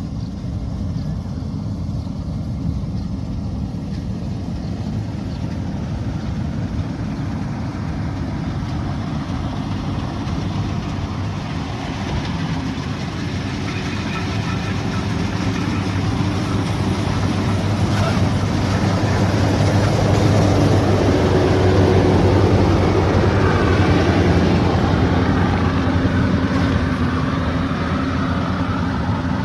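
Rice combine harvester's engine and machinery running steadily, growing louder around the middle and easing slightly near the end.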